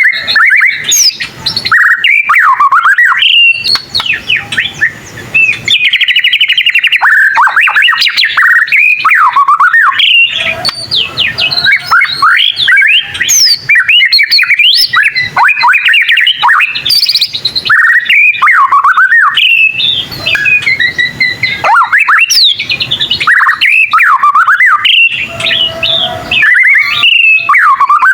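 White-rumped shama (murai batu) singing a continuous, varied song of rapid whistled notes, swooping whistles and chattering trills, with only brief pauses.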